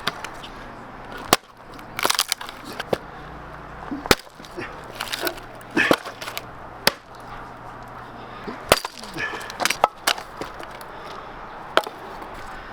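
A series of sharp knocks or chops at irregular intervals, roughly one a second, with short crackly, splintering bursts between some of them.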